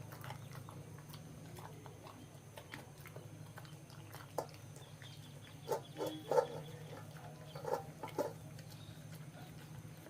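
Labrador eating food: scattered short crunching chews and clicks, loudest in a cluster about six to eight seconds in, over a steady low hum.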